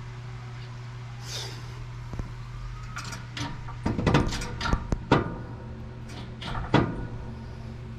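Metal parts and tools clinking and knocking while being handled during a wheel bearing job: about ten sharp clicks and knocks, some with a short ring, bunched between three and seven seconds in.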